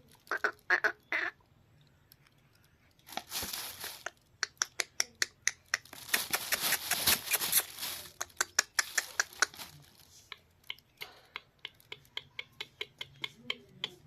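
Parrot making a few short chirps, then harsh squawk-like calls, over a long run of quick sharp clicks, several a second.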